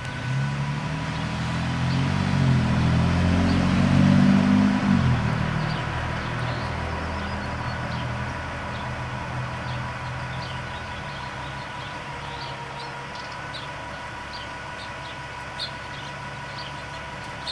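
A motor vehicle driving past, its engine and road noise building to a peak about four seconds in and then fading away. Faint short high ticks come through in the later part.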